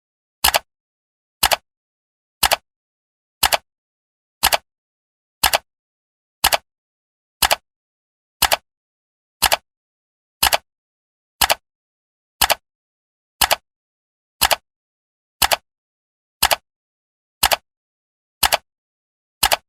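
Countdown timer's clock-tick sound effect: short, sharp ticks at a steady one per second, with nothing between them.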